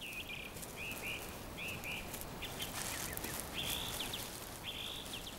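A small bird calling in a series of short, high chirps, some a little longer near the end, over a steady hiss of forest ambience.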